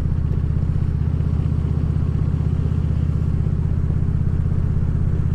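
2014 Harley-Davidson Ultra Classic Limited's V-twin engine running steadily at cruising speed, a deep even rumble with no change in pitch or level.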